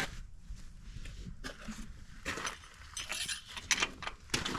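Irregular light metallic clinks and scrapes: an oil dipstick being pulled, handled and slid back into its tube on a John Deere 630 tractor to check the oil level.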